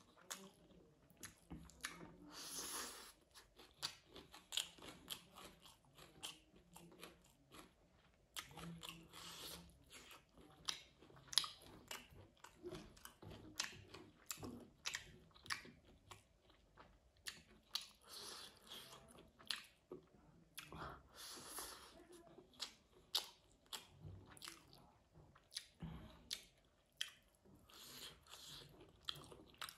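A person eating rice and meat curry by hand, chewing with wet mouth sounds, lip smacks and occasional crunches in irregular bursts.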